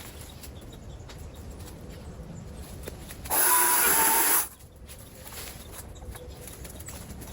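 Small gas-engine power tool running at low speed, revved hard to full throttle once for about a second partway through, then dropping back to low speed.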